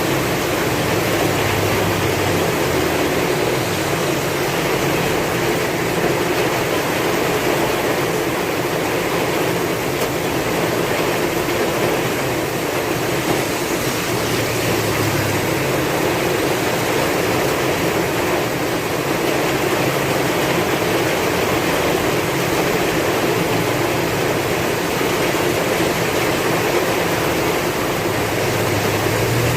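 Heavy rain falling steadily with strong wind, a dense even hiss, the wind's deeper rumble swelling and easing every several seconds.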